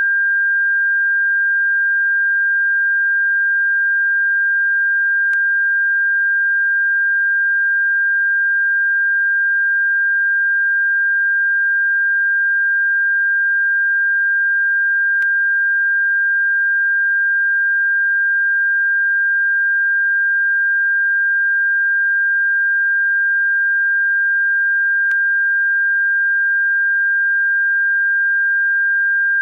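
Bird-repellent tone: a single steady, high-pitched electronic pure tone held without change, with a faint click about every ten seconds.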